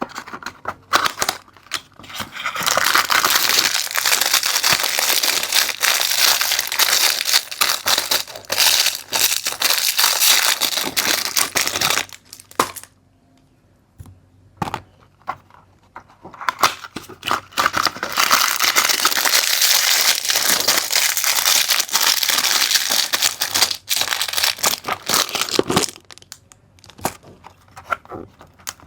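Plastic packaging crinkling and being torn, likely bags of toy building bricks being opened and handled. It comes in two long stretches with a quieter gap in the middle.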